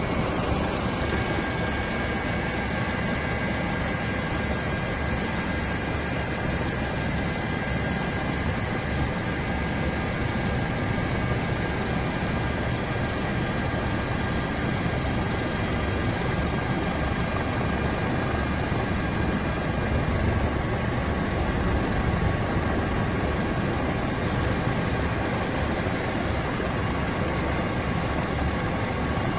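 Coast Guard rescue helicopter's rotor and turbine engines running steadily, a constant loud noise with a faint high whine over it.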